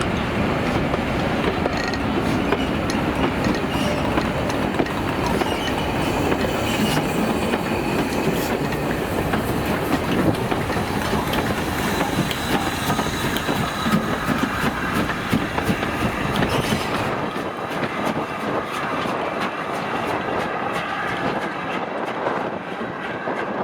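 A train's coaches rolling past at close range, wheels clattering over the rail joints with a faint squeal from the wheels. The low rumble drops away about seventeen seconds in, as the train draws clear.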